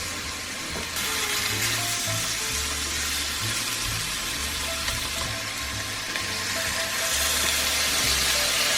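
Food sizzling in a hot pan, the hiss growing louder about seven seconds in, over background music with a steady bass line.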